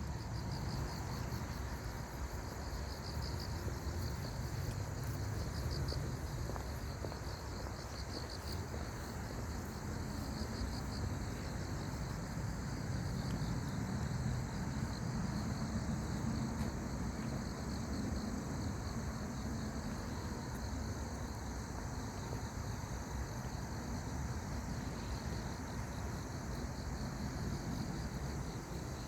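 Insects chirping in pulsing trills, high-pitched and repeating every second or so, over a steady low rumble.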